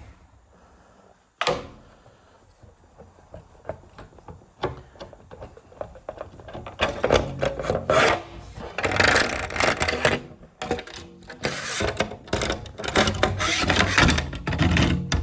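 Wood and tools being handled: a sharp knock about a second and a half in, scattered light taps, then irregular scraping and rubbing of wood that grows louder from about halfway through.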